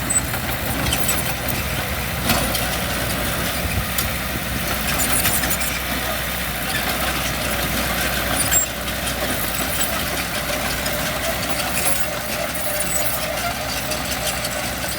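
Diesel engine of heavy earthmoving equipment running steadily, with a few sharp clanks, the loudest about two seconds in and again past the middle.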